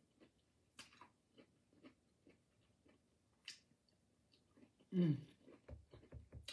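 Faint close-up eating sounds of someone chewing crispy fried fish: soft wet chews and lip smacks. About five seconds in, a hummed 'mm' of relish, falling in pitch, followed by a few dull low thumps.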